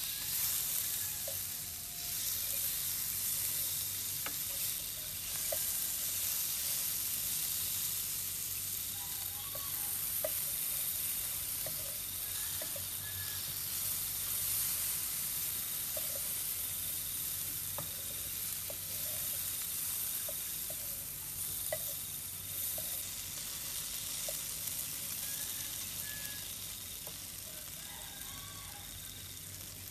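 Sliced green tomatoes, chilies and garlic sizzling in oil in a nonstick frying pan, stirred with a spatula; a steady hiss with scattered light ticks.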